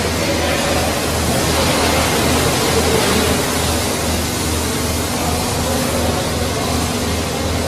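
Steady machine noise with a low, evenly pulsing throb.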